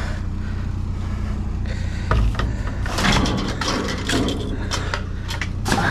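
A vehicle engine idling steadily. Over it, from about two seconds in, come scattered knocks, clatter and rustling as scrap is handled.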